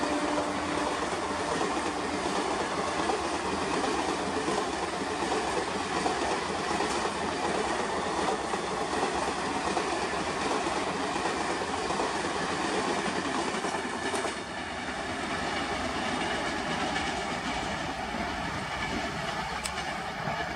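Express passenger train coaches passing at full speed: a steady rush of steel wheels on rail with clattering over the rail joints. The tail of a train horn fades out at the very start, and about 14 seconds in the level dips briefly, then carries on a little lower.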